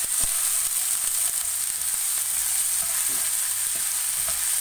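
Finely chopped shallots and garlic sizzling in hot oil in a nonstick frying pan, being sautéed and stirred with a spatula. The sizzle is a steady hiss, with a few light scrapes and taps of the spatula against the pan.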